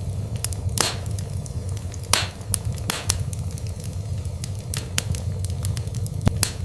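Wood fire burning in a fireplace: a steady low rumble of flames with frequent sharp crackles and pops, the loudest about a second in and again just past two seconds.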